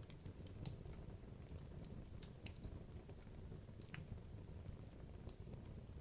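Wood logs burning in a fireplace: a low, steady rumble of flame with scattered sharp crackles and pops at irregular moments, the loudest snaps about two-thirds of a second and two and a half seconds in.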